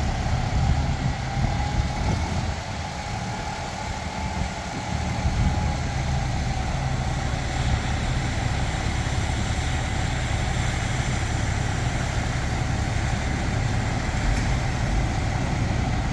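Nippon Sharyo DH408-95M pile driver's diesel engine running steadily at idle, a low hum with a steady whine over it.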